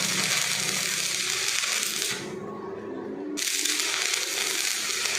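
Electric arc welding on a pipe: a steady crackling hiss of the arc that stops about two seconds in and is struck again about a second later.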